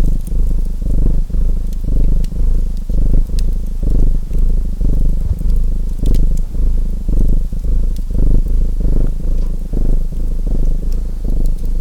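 Domestic cat purring close to the microphone, a low rumble that swells and fades in a steady rhythm with each breath in and out. Sparse sharp crackles from a wood fire are heard over it.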